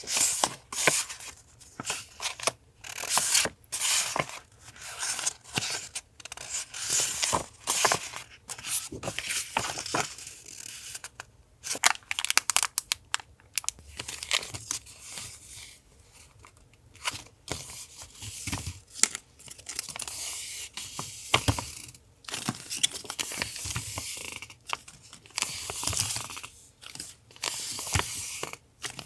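Decorative paper being handled for a collage: irregular bursts of rustling, tearing and crinkling, with short sharp snaps and taps between them.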